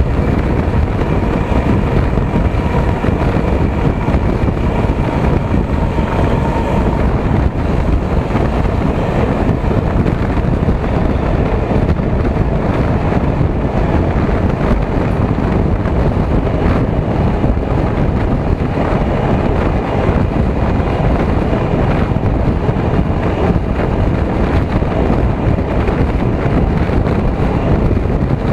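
Steady rush of wind on the microphone and rumble of a moving passenger train, heard from a camera held out of the rearmost coach's window.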